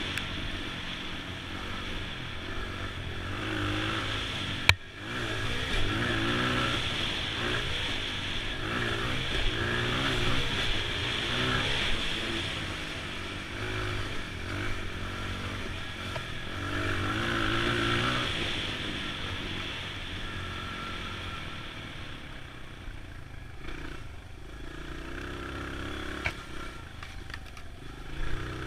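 2002 Honda XR100 dirt bike's small four-stroke single-cylinder engine running under way, its pitch rising and falling with the throttle. The engine is quieter and lower in the last third. A single sharp knock comes about five seconds in.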